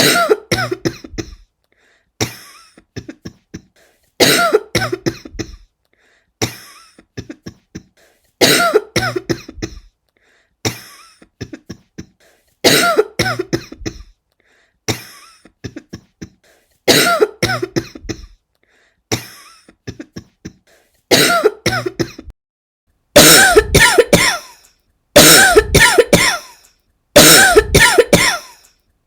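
A person coughing in repeated fits, about one every two seconds, each fit a quick run of several coughs. From about 23 seconds in the fits are heavier, with three or four strong coughs each.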